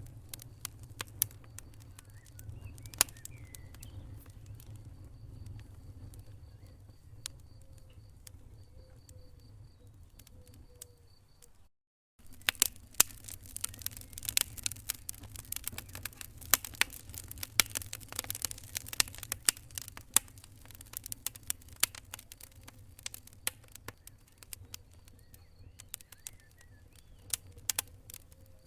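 Wood fire in a fireplace crackling and popping: irregular sharp pops over a steady low rumble. The sound cuts out completely for a moment about twelve seconds in, and the popping is denser and louder right after.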